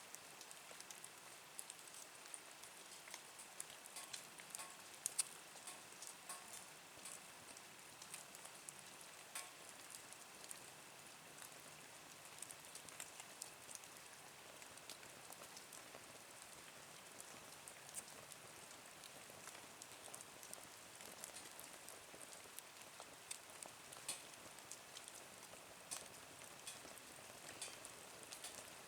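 Small wood fire burning in a Nature Stove twig stove, crackling faintly with frequent irregular snaps and pops over a soft hiss.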